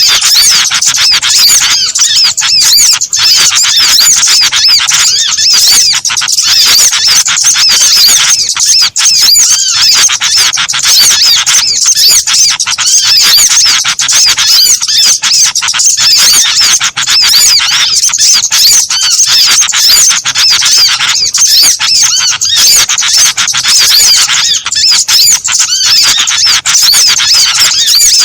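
Bird-lure recording of many small birds calling together: a dense, unbroken chorus of high, rapid chirps and squeaky twitters, played loud to draw small birds in for trapping.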